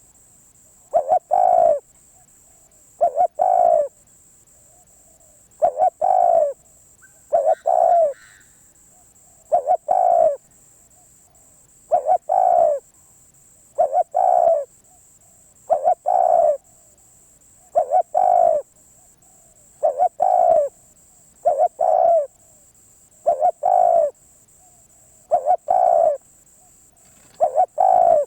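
Spotted dove cooing over and over, a short call of two or three low notes about every two seconds.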